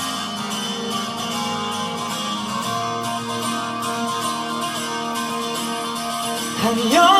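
Live band playing a guitar-led song intro. A male voice comes in singing near the end.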